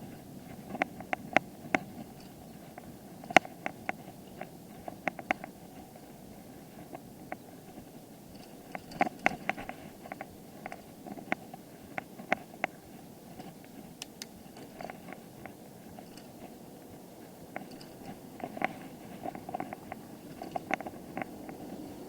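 Bicycle being ridden, rattling and clicking irregularly over a steady low rumble from the ride.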